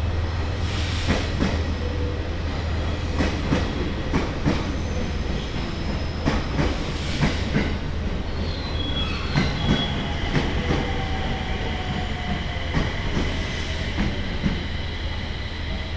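E721-series electric train moving slowly over jointed track, its wheels clacking in pairs over the rail joints every second or two, with a brief wheel squeal around the middle, over a steady low hum. The clacking stops shortly before the end.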